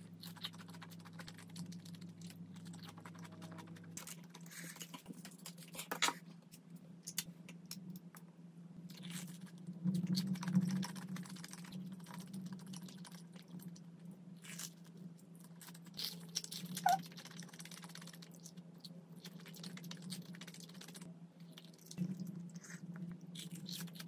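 Close-up mukbang eating sounds: crunchy bites and chewing of fried street snacks, a sugar-coated glutinous-rice twisted doughnut and a rice-batter hotdog, with louder crunches about six, ten, seventeen and twenty-two seconds in. A low steady hum runs underneath.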